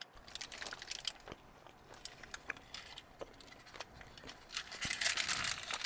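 Biting into and chewing a crunchy hard-shell taco (a cheesy gordita crunch), with crisp crackling crunches that come thicker near the end.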